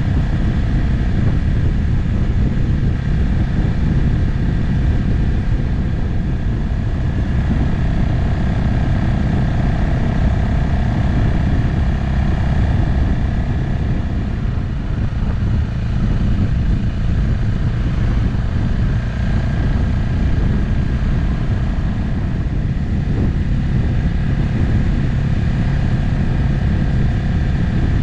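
Motorcycle riding at a steady cruising speed: the engine drones evenly under a heavy low rush of wind on the camera microphone, with small drifts in engine pitch as the throttle eases and opens.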